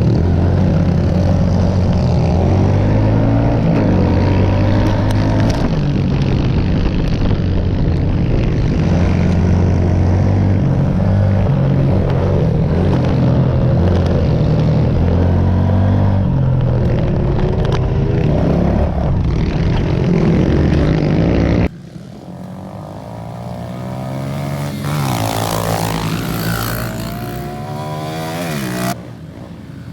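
Small four-stroke pit bike engines running and revving as they are ridden around a dirt track. About two-thirds of the way through the sound cuts abruptly to a quieter stretch where a single bike's engine climbs and falls in pitch through the throttle, with another abrupt cut near the end.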